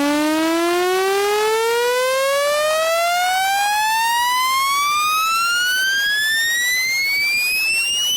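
Speaker-cleaner tone for a smartphone: one electronic pitch with buzzy overtones gliding steadily upward from low to high, a frequency sweep played to shake water and dust out of the phone's speaker.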